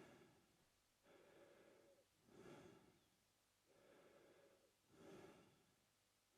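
A man breathing through his mouth, faint and slow and steady: a longer, softer breath alternating with a shorter, louder one, a full cycle about every two and a half seconds.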